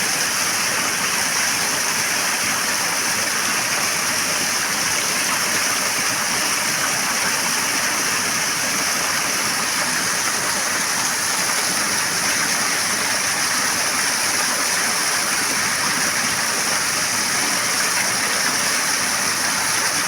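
Rushing water, a loud steady hiss of flowing water.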